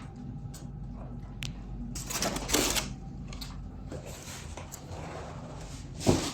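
Packaging being handled while an electric fireplace is unboxed: scattered clicks and rustling, a louder rustling scrape about two seconds in, and a sharp knock near the end.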